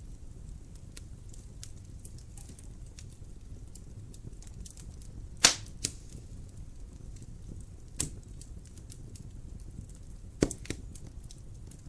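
Wood fire crackling in a fireplace: a low steady rumble of flames under scattered small crackles, with three sharp loud pops from the burning wood about five and a half, eight and ten and a half seconds in.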